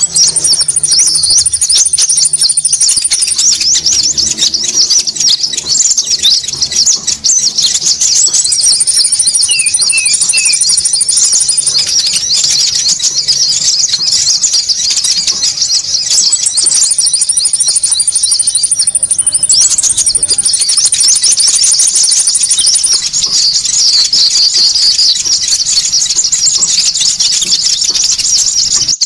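Konin bird calls played as a lure: a busy chatter of many overlapping high, rapid chirps with no break. A thin, very high trill joins in four times, each time for about three seconds.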